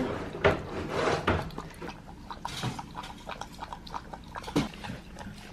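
A dog lapping up goat milk: a quick, irregular run of short wet laps and clicks.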